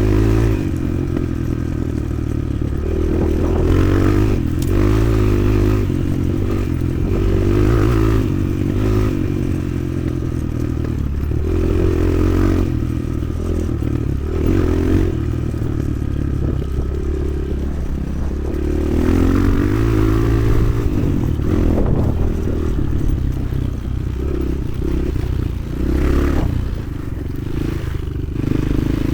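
Motoland XR 300 Lite enduro motorcycle engine running under way, its pitch rising and falling repeatedly as the throttle is worked. Scraping and clattering noise from the ride runs alongside it.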